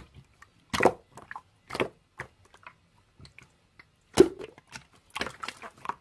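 Slime being squished and pressed by hand, making a handful of short, irregular squishes and clicks with gaps between them.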